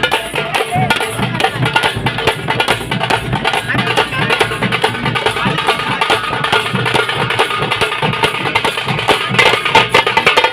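Group of drums beaten fast and without a pause in a dense, continuous rhythm: the 'kodi' beat of Muharram procession drumming.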